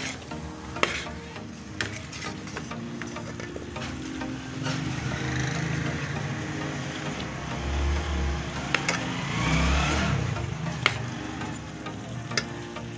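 Potato and cauliflower pieces sizzling in oil in a pan while being stirred with a spoon, which scrapes and clinks against the pan a few times. The sizzle swells through the middle of the stretch.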